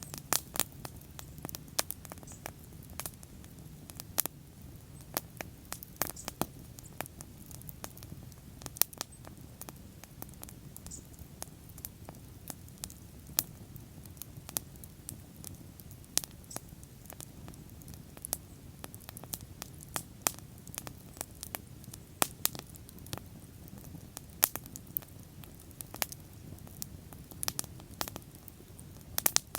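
Wood bonfire burning and crackling, with irregular sharp pops and snaps scattered throughout over a steady low rumble of the flames.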